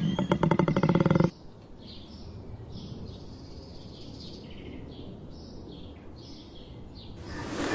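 A deep, rough animal growl cuts off about a second in. It is followed by a string of short, high bird chirps, about a dozen over several seconds. Near the end a noisy hiss starts suddenly.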